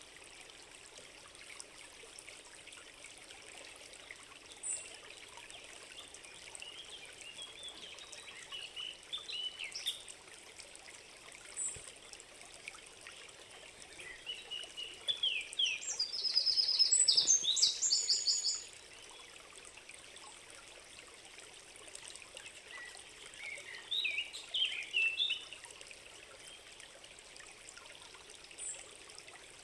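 Forest ambience: a steady trickling stream, with songbirds singing short phrases. The loudest is a rapid, high trill about halfway through.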